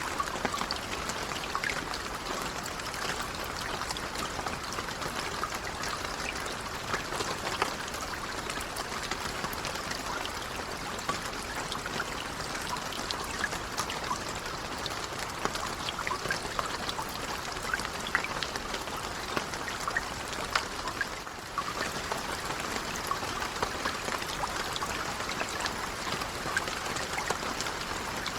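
Steady rain with many individual drops pattering, and a short dip in level about 21 seconds in.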